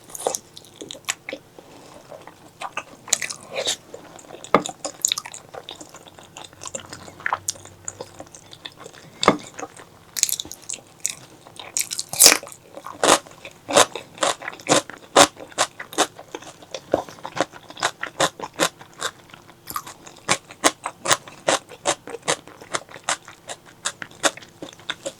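Close-miked mouth sounds of someone eating spicy pork leg curry: crunchy bites and chewing. Scattered at first, then a steadier run of chewing clicks from about halfway through, roughly two to three a second.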